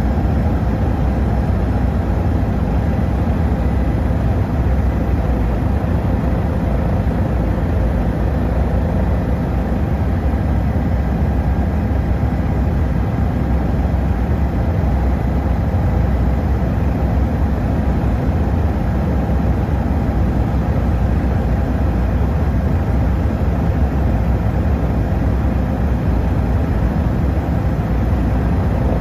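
Helicopter in flight: a steady, loud low drone of engine and rotor, with faint steady tones above it.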